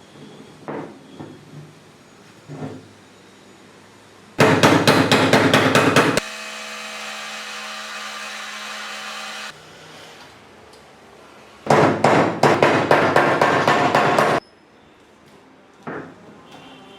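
Rapid hammer blows in two bursts of about two seconds each, about five strikes a second, with a steady hum between the bursts and a few lighter knocks before and after.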